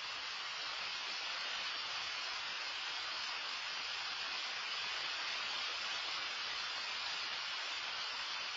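Heavy rain falling, a steady even hiss with no separate drops or knocks standing out.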